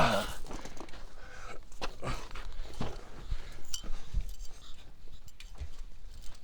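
Scattered light clicks and knocks of small hand tools being picked up and handled.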